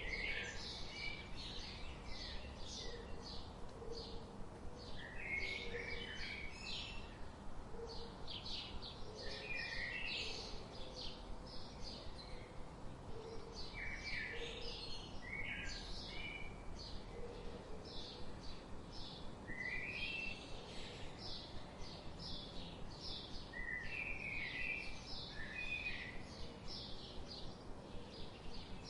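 Several forest birds calling at once: rapid, high, short chirps repeating throughout, with a mid-pitched phrase every few seconds and faint low notes underneath, over a steady background hiss.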